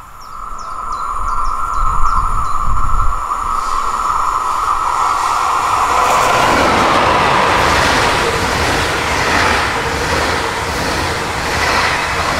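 A train approaching and passing on an electrified railway line. A steady high tone builds first, then about six seconds in the rush of the passing train takes over, with a regular clatter about once a second as the wheels go by.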